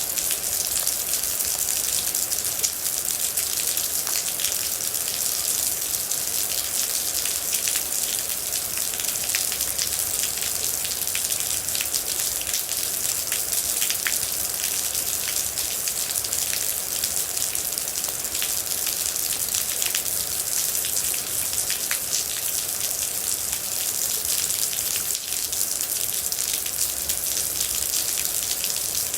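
Steady rain, with many individual drops pattering and ticking on a hard surface over a constant high hiss.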